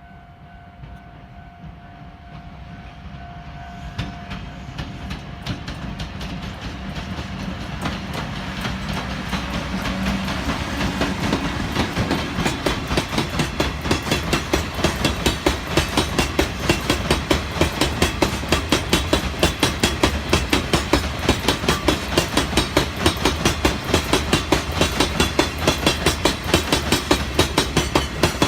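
Chichibu Railway freight train approaching and passing, growing steadily louder from faint to loud. From about halfway through, the wheels click rapidly and regularly over the rail joints, a clickety-clack that runs on to the end. A steady tone sounds in the first few seconds.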